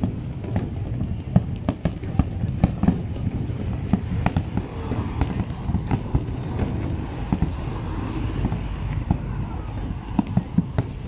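Aerial display fireworks going off in quick, irregular succession: many sharp bangs and crackles over a steady low rumble, thinning out for a few seconds in the middle.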